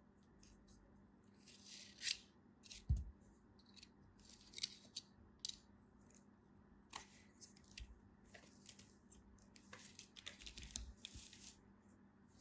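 Close-miked crisp scraping and crackling in short bursts, with scattered sharp clicks, a denser run of scraping later on, and one low thump about three seconds in.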